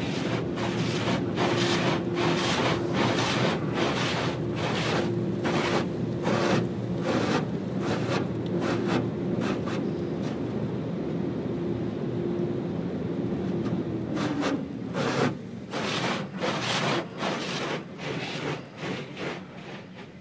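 Automatic car wash brushes scrubbing the car, heard from inside the cabin: repeated swishing slaps about twice a second over a steady machine hum. The hum drops in pitch and fades about two-thirds of the way through, while the slaps go on more unevenly.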